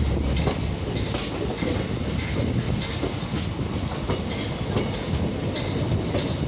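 Passenger train running, heard from aboard the coach: a steady low rumble with the wheels clicking over rail joints at uneven intervals.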